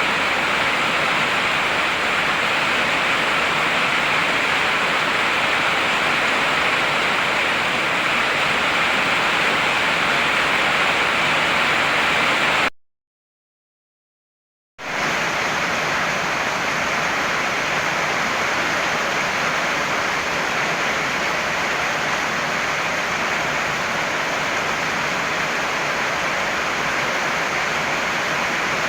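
Heavy rain falling in a steady, even hiss. It cuts out to complete silence for about two seconds a little before the middle, then comes back.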